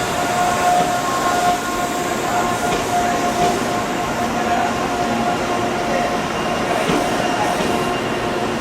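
Electric commuter train running: a steady rumbling noise with a whine held at a fixed pitch.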